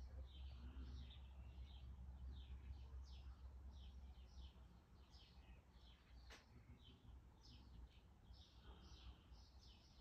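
Faint, rapid series of short high chirps from small birds, two or three a second without a break, over a low steady hum. A single sharp click about six seconds in.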